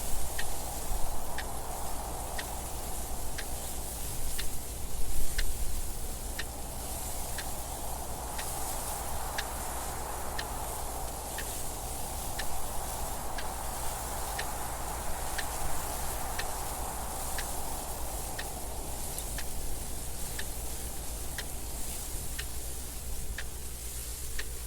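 Mechanical clock ticking evenly, about two ticks a second, over steady wind noise that slowly swells and fades.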